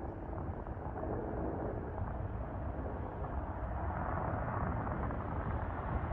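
Jet engine noise from a Boeing 757-232 with Pratt & Whitney PW2000-series turbofans, growing louder as the airliner draws nearer. Wind rumbles on the microphone underneath.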